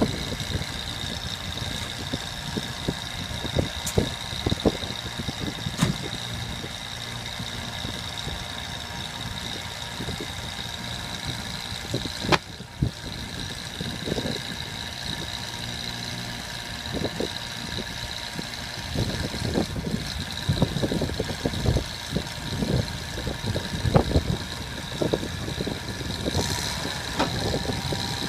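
An engine on a 1998 C7500 bucket truck idling steadily, with a steady high whine over it. Scattered knocks and clunks come through, most of them in the second half.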